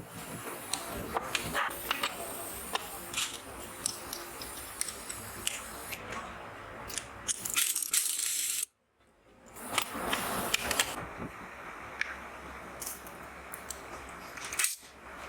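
Metal engine parts and hand tools clicking and clinking during assembly of a 70cc motorcycle engine, over a steady background noise. The sound cuts out briefly about nine seconds in.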